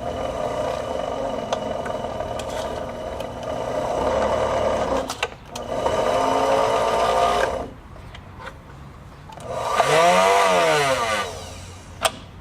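Kenmore 120.714 sewing machine's motor running on its new foot controller during a first test run after rewiring and oiling. It runs for about five seconds, stops briefly, runs again, then after a pause makes one last run that speeds up and winds back down; a single click near the end.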